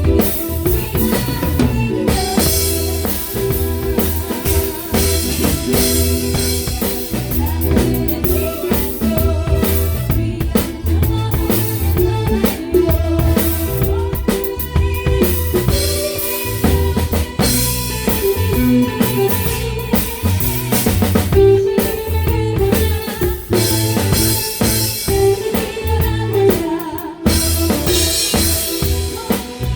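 Live band playing a song: a drum kit with kick, snare and rimshots keeps a steady beat under bass guitar and sustained instrument parts.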